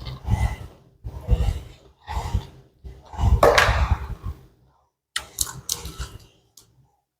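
Loud close-up eating noises: chewing and crunching in a run of separate bites, about one a second, with the loudest about halfway through.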